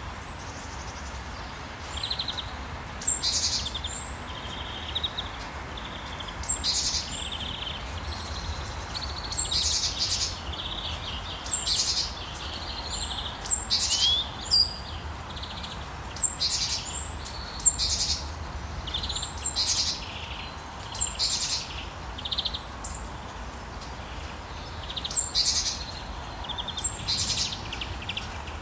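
Rainforest birds calling over and over: sharp high chirps and short trills every second or two, over a steady background hiss.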